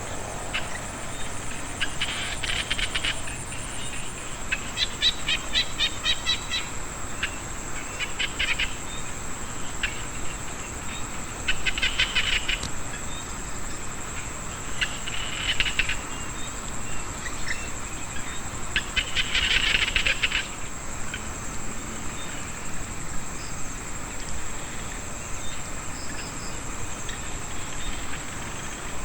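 Small frogs calling in a rice field after rain. Bouts of rapid pulsed calls about a second long come every few seconds, over a steady high-pitched drone of insects.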